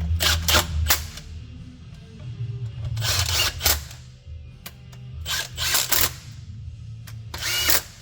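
Metal parts and tools clattering and clicking in four short bursts over background music with a steady bass.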